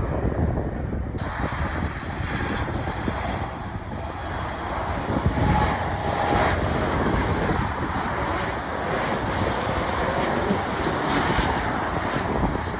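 Airplane engines running: a steady rushing noise that swells slightly midway.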